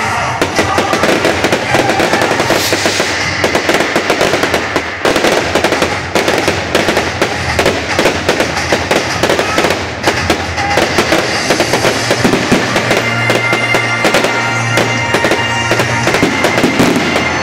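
Fireworks going off in a dense, rapid run of crackles and pops from crackling stars and fountains, with music playing underneath.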